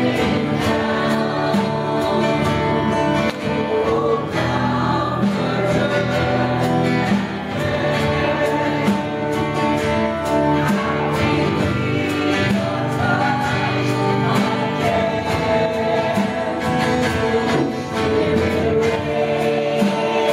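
Live worship music: a choir of voices singing a gospel worship song over a band with guitar and a steady cymbal beat.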